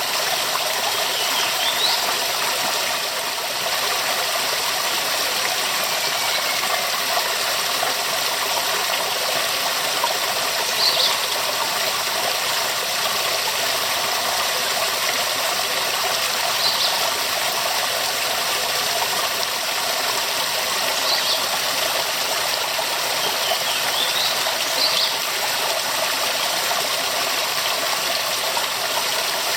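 Waterfall rushing steadily, an even, unbroken noise of falling water. A few short high chirps sound over it at intervals.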